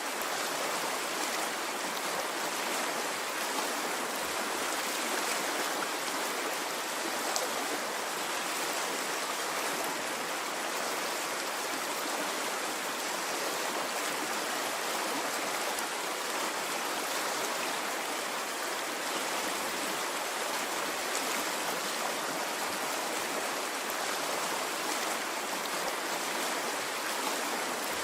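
A stream of running water flowing in a steady, unbroken rush, with no rise and fall of waves.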